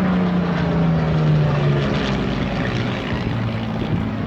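Hawker Hurricane's Rolls-Royce Merlin V12 engine and propeller as the fighter flies past. The engine note is loudest a little over a second in and drops in pitch over the first two seconds as the aircraft passes, then runs on steadily at a lower note.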